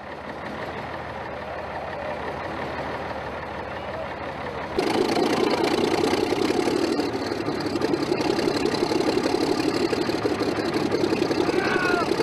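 Diesel engine of a 1955 Fowler shunting locomotive, being started after ten years out of use. It grows louder over the first few seconds, then about five seconds in turns abruptly louder into a fast, steady, knocking beat.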